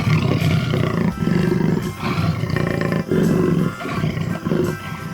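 Jaguar roaring: a run of about five rough calls, each about a second long.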